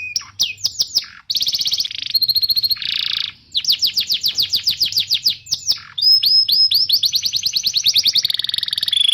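Domestic canary singing, a loud, fast chirping song. It goes in runs of one repeated sweeping note at about ten notes a second, and each run switches to a new note type after a second or two.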